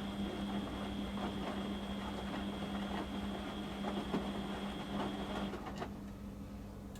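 Beko WM6255W washing machine running, a steady hum with a high whine over a rustling, clicking noise. The whine stops and the sound drops about five and a half seconds in, followed by a click.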